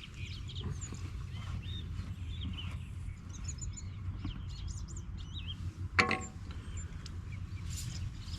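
Small birds chirping and singing over a steady low rumble, with a single sharp knock about six seconds in.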